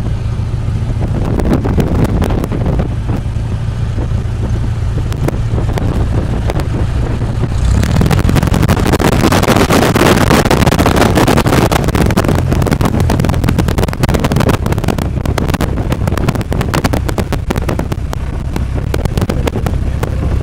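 Cessna 172's engine running with a steady low drone, joined about 8 seconds in by a much louder rushing of air that stays on, with frequent short knocks and rattles throughout.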